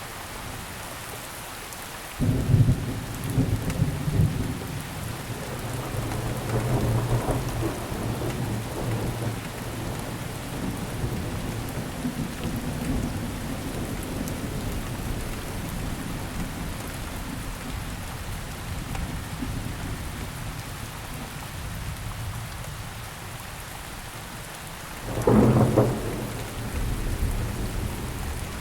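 Steady rainfall with thunder: a sudden crack about two seconds in that rolls on and slowly fades over some twenty seconds, then a second sharp clap near the end.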